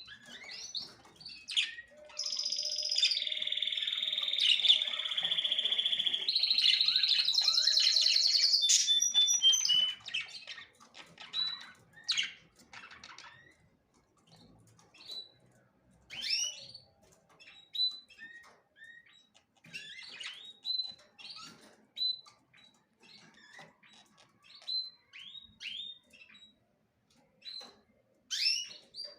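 Small songbirds: a long, loud trilled song runs from about two seconds in to about ten seconds, then short scattered chirps follow for the rest.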